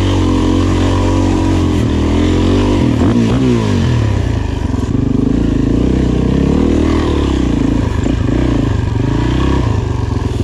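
Suzuki DR-Z400E's single-cylinder four-stroke engine working under load off-road, revs rising and falling with the throttle, with a sharp drop and pick-up about three seconds in.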